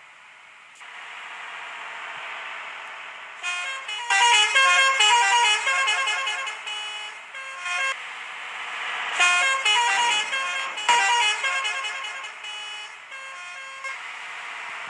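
Bus horn playing a tune of stepped notes in two long runs, over the steady noise of the moving bus.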